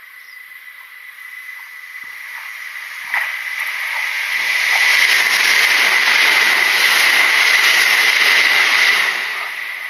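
Kintetsu Nagoya Line electric train approaching and passing close by. It grows louder over about five seconds, stays loud for about four, then begins to fade. A sharp click comes about three seconds in.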